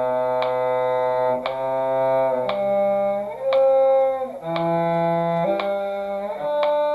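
A slow two-part string duet: a low cello-range line under a higher line, long held notes changing every second or so, with a metronome click about once a second.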